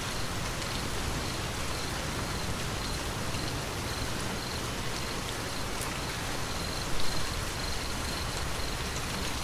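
Steady rain falling, an even hiss, with a faint high chirp repeating at a regular pace behind it. There is a brief louder knock about seven seconds in.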